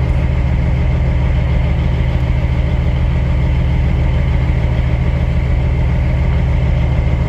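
Semi truck's diesel engine idling steadily while the truck sits waiting.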